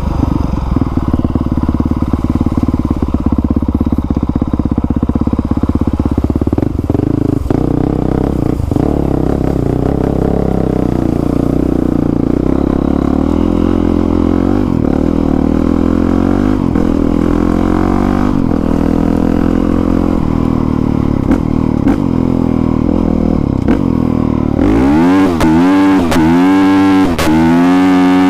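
2020 Honda CRF450R's single-cylinder four-stroke engine with a new exhaust, running under varying throttle while being ridden. From about 25 seconds in, the revs rise and fall sharply several times in quick succession.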